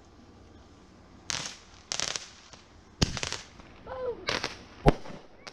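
Consumer fireworks going off: a string of bangs and crackling bursts at irregular spacing, starting about a second in, with the sharpest crack near the end.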